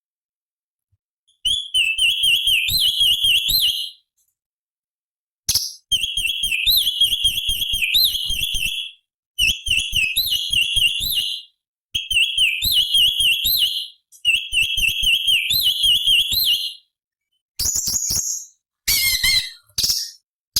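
Cucak cungkok (a leafbird) singing: five bouts of rapid, wavering high whistled notes, each lasting two to three seconds with short pauses between, then a burst of choppier, more varied notes near the end.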